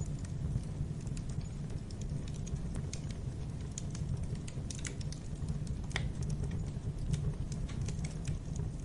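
Wood fire crackling in a fireplace: scattered, irregular crackles and pops over a low steady rumble, with one sharper pop about six seconds in.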